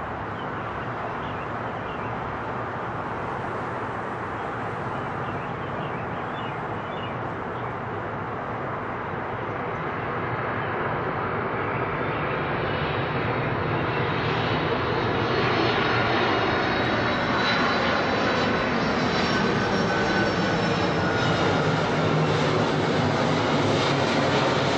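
Jet engines of a UPS Boeing 767 flying overhead, a steady roar that grows louder about halfway through. High whining engine tones come in over the roar as it nears.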